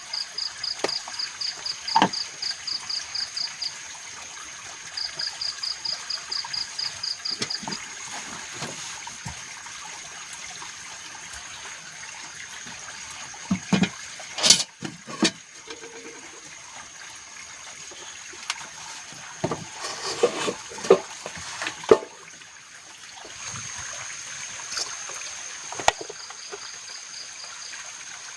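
Forest ambience with running water trickling, a rapid high pulsing call, about five pulses a second, in two runs in the first few seconds, and a steady high drone. Scattered knocks and clatters around the middle and again later.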